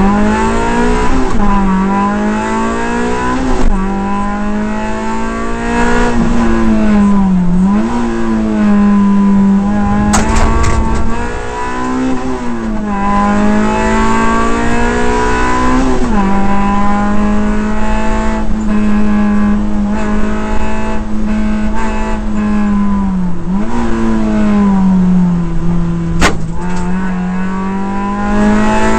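Suzuki Swift Sport rally car's four-cylinder engine, heard from inside the cabin, driven hard through the gears on a rally stage. Its pitch climbs under acceleration and drops sharply at each gear change, several times over.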